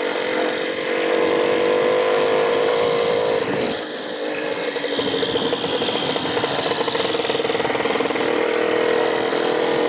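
Motorcycle engine running steadily, dipping briefly about four seconds in before settling again.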